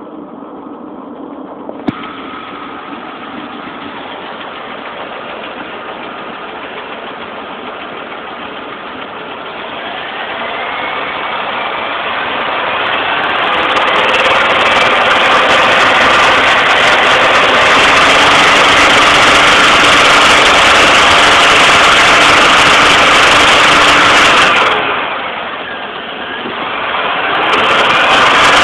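Pontiac Grand Am's 3400 V6 engine idling, then revved up and held high for about ten seconds, eased off and revved again near the end. Above 2000 rpm it makes a loud rattle whose cause is still unknown, with the valve train ruled out. A single sharp click about two seconds in.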